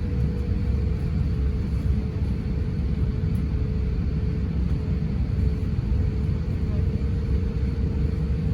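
Steady cabin rumble of an Airbus A350-900 airliner, from its Rolls-Royce Trent XWB engines and the airflow, with a steady droning hum over it.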